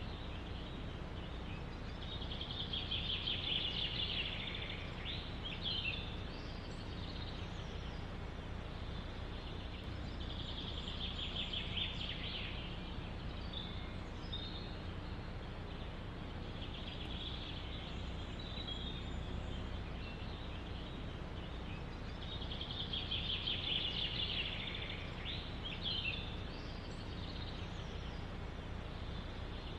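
Steady wind in a forest, with a songbird singing a fast trilling phrase several times, one every several seconds.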